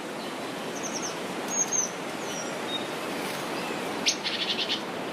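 Birds chirping and calling over a steady background hiss: short high chirps, a falling whistle, and near the end a sharp note running into a rapid trill.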